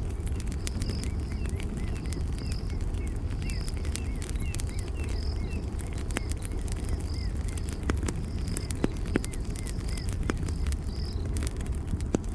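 Campfire crackling: sharp pops and snaps over a steady low rumble of burning wood. Small birds chirp through the first half, and a high short chirp repeats about every half second.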